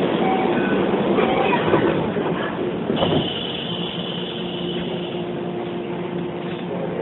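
Running noise heard inside a Hokuso 7500-series electric commuter train, a steady rumble of the car that eases slightly after about two seconds. A steady high tone joins about three seconds in, and a lower steady hum follows.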